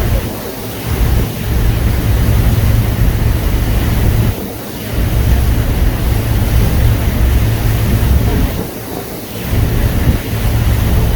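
Wind buffeting the microphone: a heavy low rumble over a steady hiss of wind and water, dropping away briefly three times.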